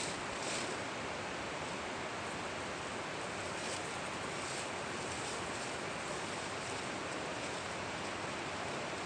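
Steady rushing outdoor noise, like wind on the microphone, with no clear pitched sound.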